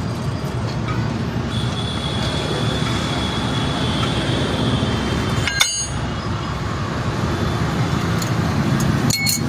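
Steady road traffic noise, with a sharp metallic clink about halfway through and another near the end.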